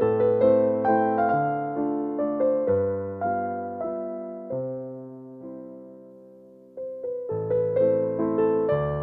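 Background music: a gentle piano melody with chords, its notes struck and decaying; one note is held and fades away for a couple of seconds before the playing resumes.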